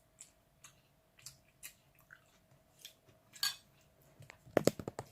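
Cutlery clicking against a bowl, with chewing, as someone eats a meal of soup. Scattered short clicks throughout, then a quick run of sharper clicks near the end.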